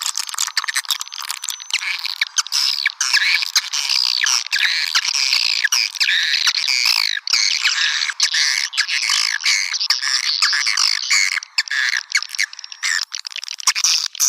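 Swiftlet lure call, the recorded chattering of many edible-nest swiftlets played to draw the birds to a nest house: dense, overlapping high chirps and twitters with sharp clicks throughout.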